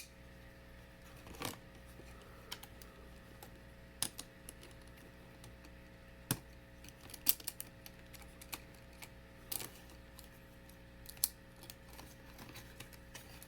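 Irregular light clicks and taps, a dozen or so scattered unevenly, over a faint steady hum.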